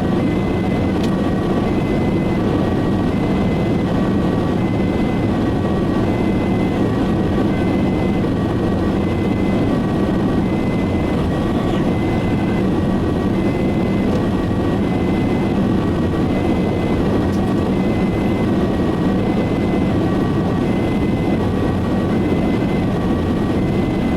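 Two-tone emergency siren alternating evenly between a high and a low note, heard from inside the ambulance cabin over the loud, steady engine and road noise of a Mercedes E-Class ambulance driving fast.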